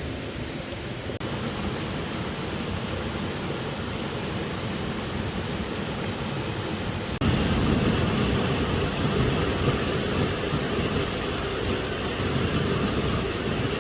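Steady rush of falling water from a waterfall. About seven seconds in it jumps suddenly louder and fuller.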